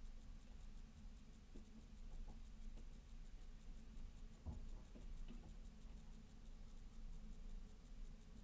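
Faint, scattered light taps and scratches over a low steady hum: titmice and sparrows pecking at seeds in a bird feeder.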